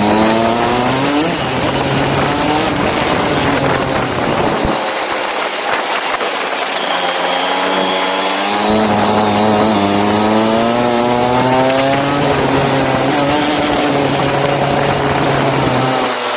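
Go-kart engine running under load. Its pitch climbs as it accelerates near the start, then climbs again in a long, gradual rise through the second half.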